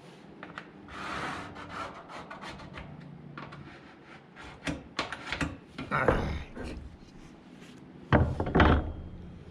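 Handling and work noises: a run of knocks, rubs and scrapes, with the loudest thumps about eight seconds in.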